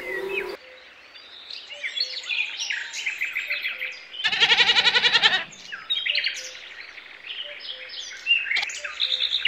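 Songbirds chirping and singing: many short, quick rising and falling calls, with a louder, rapid pulsed call lasting about a second around four seconds in.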